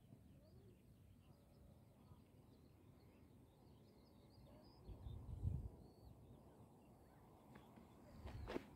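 Faint hilltop ambience: distant small birds chirping over a low wind rumble on the microphone, which surges briefly about five seconds in. A short knock sounds near the end.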